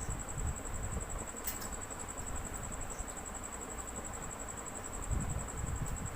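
A steady, high-pitched insect trill, like crickets, running on over a low, uneven rumble like wind on the microphone.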